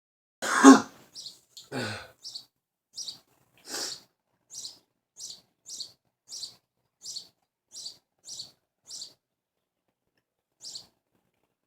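Bluebird giving a string of short high chirps, about one every half second or so, stopping a couple of seconds before the end with one last chirp. Three fuller, louder non-bird sounds come in the first few seconds, the first of them the loudest.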